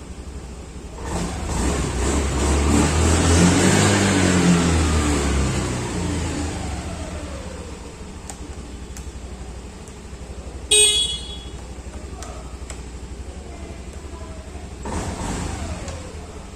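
Road traffic going by. A vehicle passes, growing loud and then fading with its pitch falling as it goes away. A short horn toot comes about eleven seconds in, and another vehicle passes near the end.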